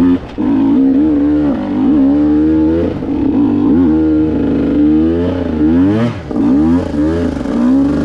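Two-stroke enduro motorcycle engine revving up and down over and over, with brief throttle cuts every few seconds, as the bike struggles for grip on slippery mud.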